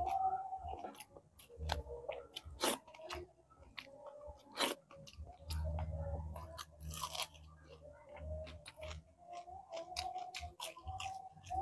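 Close-miked crunching and chewing of crispy fried bisugo (threadfin bream) eaten by hand, with sharp crunches every second or two over softer wet chewing.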